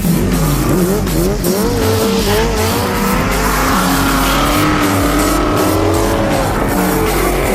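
Engine of a drifting vehicle revving hard: its pitch climbs over the first couple of seconds, then wavers up and down as the throttle is worked through the slide.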